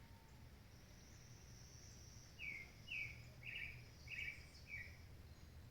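A bird gives a run of five short, downward-slurred chirps, about two a second, starting about two and a half seconds in. Under it runs a steady, faint, high insect buzz.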